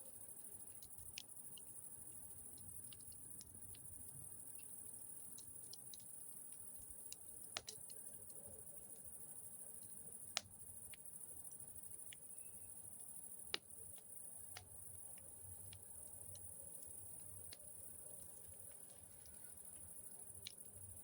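Campfire burning quietly with sparse, sharp crackles and pops, three of them louder, over a steady high-pitched trill of insects.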